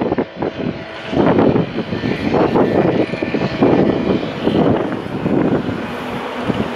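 Rumble of an electric locomotive-hauled train approaching a station, mixed with irregular gusts of wind on the microphone that swell and dip throughout.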